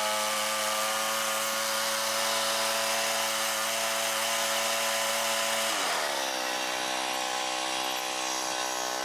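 Portable sawmill's engine running at high speed, then dropping to a lower pitch about six seconds in and holding there.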